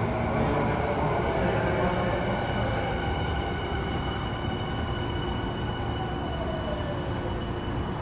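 Saitama Railway 2000 series electric train running, heard from on board: rail and wheel rumble with a motor whine that falls slowly in pitch as the train slows.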